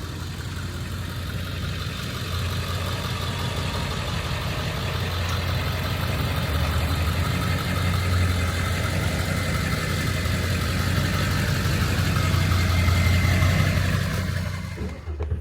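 A vehicle engine running steadily: a low, even drone that grows gradually louder, peaks near the end, then eases off.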